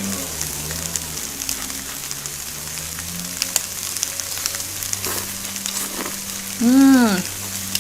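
Shrimp and vegetables sizzling on a plug-in grill, with scattered crackles, over the low drone of the gardeners' power equipment. Near the end comes a short hummed "mm" that rises and falls in pitch, the loudest sound.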